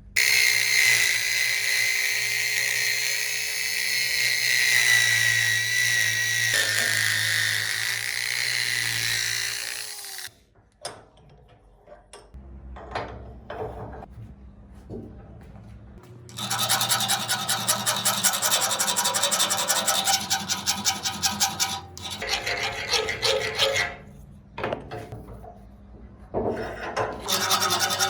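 A power tool runs with a steady, slightly wavering whine for about ten seconds, working on the hammer. After a quieter gap with scattered clicks, fast rasping strokes of abrasive work start about sixteen seconds in and go on to near the end.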